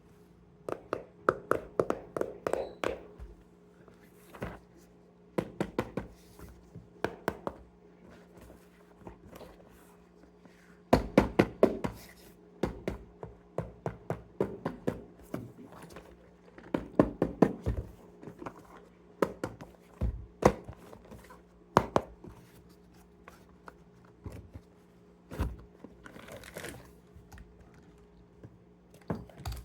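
Hands handling toy boxes and packaging: irregular clusters of sharp taps, knocks and clicks with some crinkling, over a faint steady hum.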